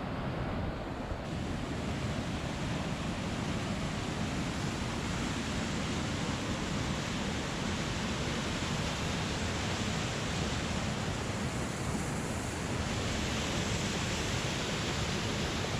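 Waterfall on a creek: water rushing steadily over the falls, getting a little brighter and hissier about a second in.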